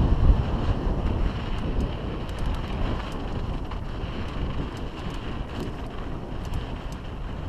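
Wind buffeting the microphone on a mountain bike descent, over a low rumble of tyres on the trail, with a few small scattered clicks. The rush eases gradually.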